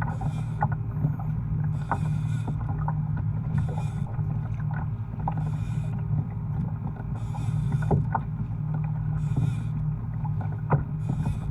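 Water washing and slapping against a fishing kayak's hull under way, with a hissing splash coming back about every one and a half to two seconds over a steady low rumble and small clicks.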